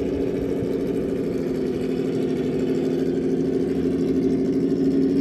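Traxxas TRX4 RC crawler's electric motor and geared drivetrain whining steadily as it drives, growing slightly louder near the end.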